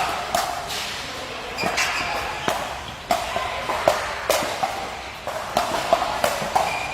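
Racket or paddle strikes and ball bounces of a doubles rally, sharp cracks at an irregular pace, echoing in a large indoor hall.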